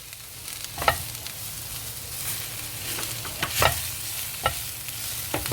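Chopped garlic and onions with spices sizzling in hot oil in a pan while a spoon stirs them, with a few sharp scrapes and knocks of the spoon against the pan.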